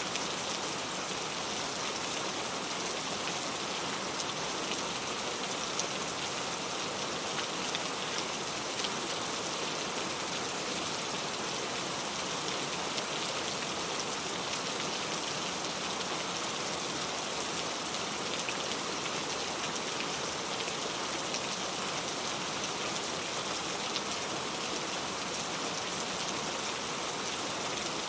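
Steady rain falling on a hard surface, a dense even hiss with scattered drop ticks.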